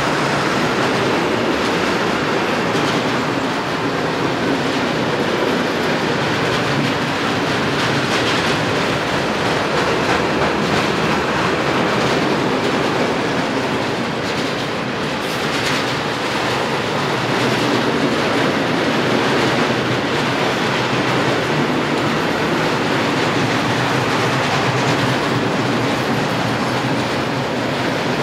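Freight train of pressurised gas tank wagons rolling past close by: the steady noise of wheels running on the rails, with wheel clatter over the track.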